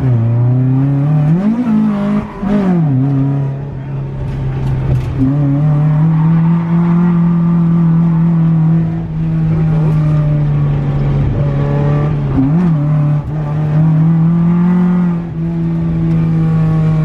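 Toyota AE86's BEAMS 3S-GE four-cylinder engine revving hard while drifting. Its pitch jumps up and down a few times in the first couple of seconds, then holds high for most of the time, dipping briefly now and then.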